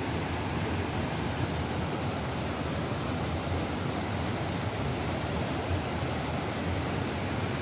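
Steady rushing of waterfall and river rapids, an even hiss.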